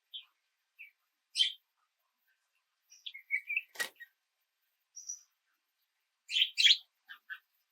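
Small songbirds giving short, scattered chirps and tweets, the loudest pair about six and a half seconds in, with a single sharp click near the middle.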